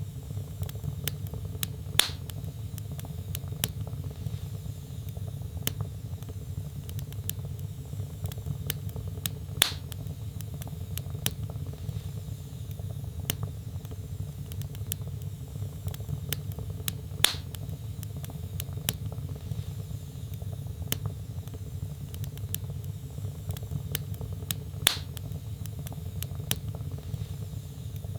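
Wood fire burning in a fireplace: a steady low rumble of flames under many small crackles, with a louder sharp pop about every seven and a half seconds, four in all.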